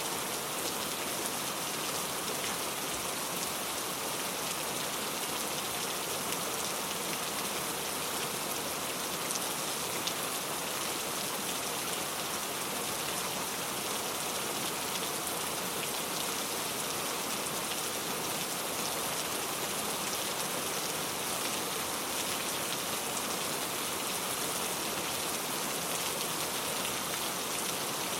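Steady rain ambience: an even hiss of rain falling on a surface, with faint scattered drop ticks.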